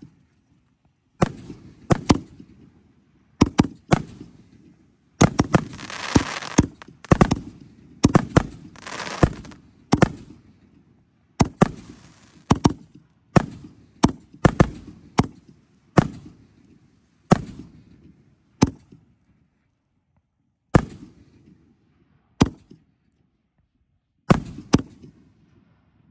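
Excalibur Platinum 5-inch canister shells firing: dozens of sharp echoing booms from shells lifting out of mortar tubes and bursting overhead, many coming in quick pairs. Two stretches of dense crackle come in the first half.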